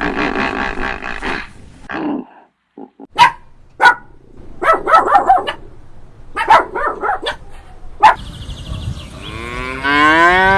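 A run of animal calls: a rough call at the start, a few sharp clicks, and two groups of short calls. Near the end comes a long cow moo that rises in pitch.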